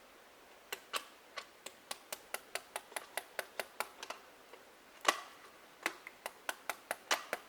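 Small hammer tapping a nail into a dead tree, quick light taps at about five a second starting just under a second in, with a short pause and one harder blow about five seconds in.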